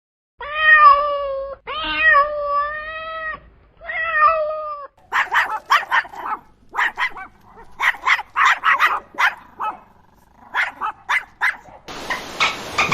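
A domestic cat meowing three times in long, drawn-out, level-pitched calls, followed by a rapid series of short, harsh animal calls. About a second before the end, a steady rushing noise starts.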